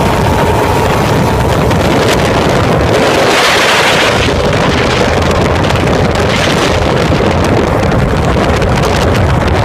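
The 1959 Powercat boat's twin 2.4 motors running under way, with heavy wind buffeting the microphone and water rushing past the hull. There are louder hissing surges about three seconds in and again around six seconds.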